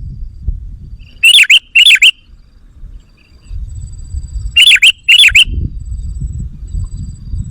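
Sooty-headed bulbul (kutilang) calling loudly in two short phrases, each of two quick looping notes, about a second in and again near the middle.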